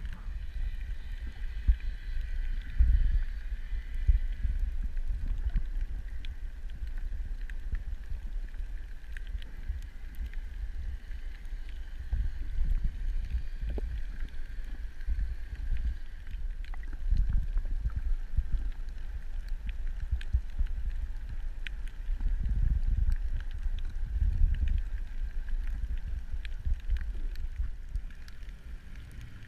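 Underwater water noise: a low rumble that swells and fades irregularly, with a faint steady high hum and scattered small clicks.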